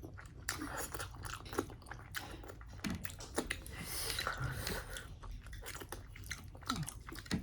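A person chewing homemade momos (dumplings) close to the microphone, with many short, irregular wet mouth clicks and smacks.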